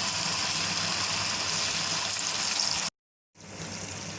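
Hot oil sizzling steadily as marinated chicken strips deep-fry. About three seconds in it cuts off for half a second, then comes back quieter.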